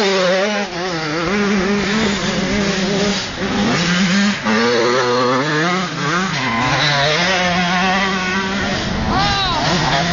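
Several motocross bikes' engines racing at once, their pitch wavering up and down as riders rev and change gear. One engine rises and falls sharply about nine seconds in, as a bike passes close.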